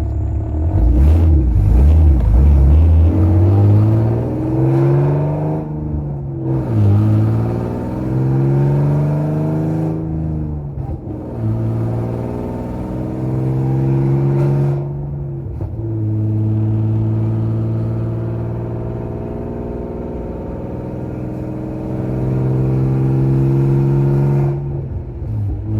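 Infiniti G37's VQ37VHR V6 heard from inside the cabin on a full-throttle pull. The engine climbs in pitch through each gear and drops back at each upshift, three times, then climbs again near the end.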